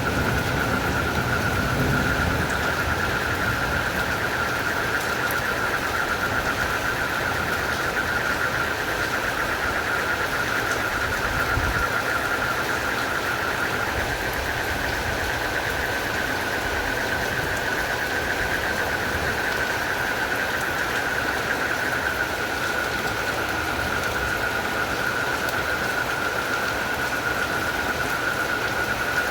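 Steady rain with a continuous chorus of calling crickets and frogs, heard as one unbroken high-pitched trill over the rain's hiss.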